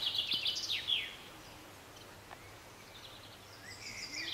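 A small bird singing: a quick run of high chirping notes that stops about a second in, then a fresh phrase starting near the end.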